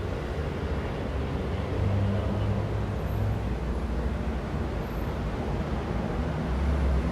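Downtown city traffic: a steady low rumble of passing vehicles with engine hum, growing a little louder about two seconds in.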